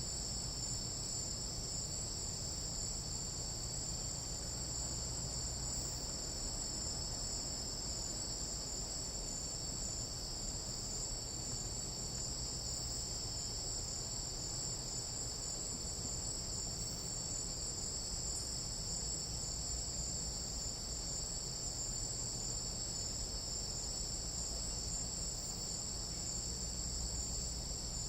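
Chorus of tropical night insects in jungle, a continuous high-pitched trilling that holds steady without a break.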